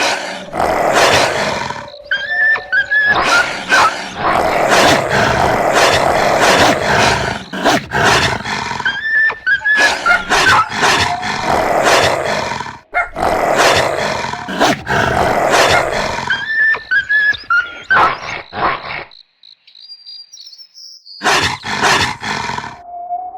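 Loud animal roaring and growling in long harsh bursts, the same pattern coming round about every seven seconds. It breaks off for about two seconds near 19 seconds in.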